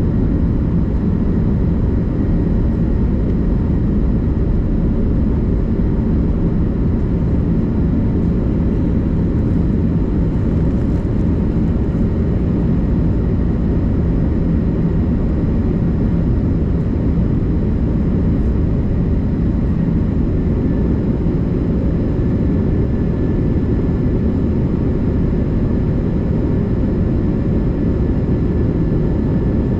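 Airbus A330-200 jet engines running, a loud steady rumble with faint constant high whining tones above it, unchanging throughout.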